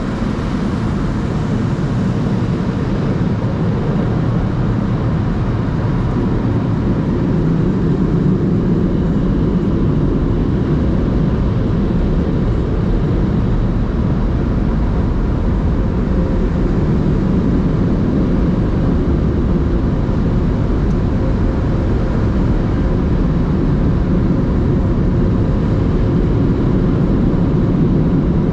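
Automatic drive-through car wash equipment running around the car, heard from inside the cabin as a loud, steady rushing noise with a faint steady hum.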